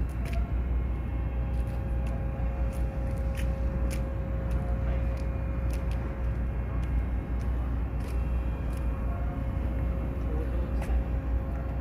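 Ferry's engines running: a steady low drone with a constant hum above it, and scattered light clicks.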